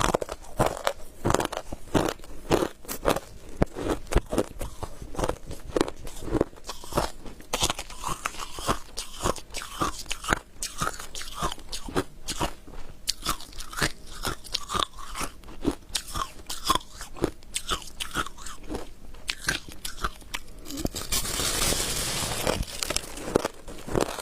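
Close-up crunching and chewing of freezer frost ice: rapid, irregular bites and crackles as the packed frost breaks between the teeth, with a denser crunch lasting about two seconds near the end.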